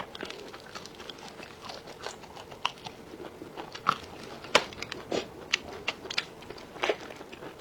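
A person chewing and biting crunchy food close to the microphone, with irregular sharp crunches and clicks.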